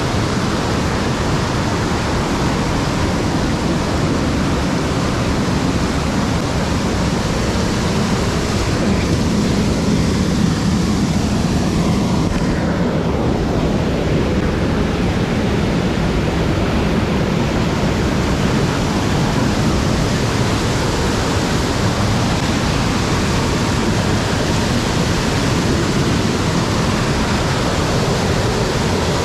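Loud, steady rushing of a mountain stream's white water over rocks.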